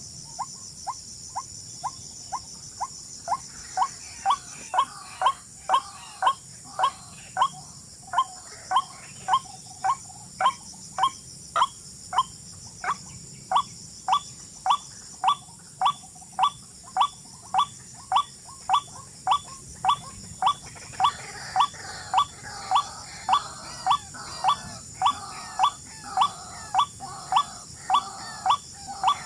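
A bird call repeated over and over at an even pace, a little under two short sharp notes a second, faint at first and louder after about four seconds. Insects trill steadily behind it, high-pitched.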